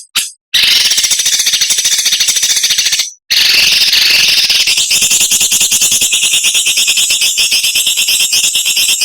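Songbird giving a harsh, very rapid rattling chatter (the 'besetan' or 'mbeset' call used in bird-training recordings), in two long runs with a short break about three seconds in.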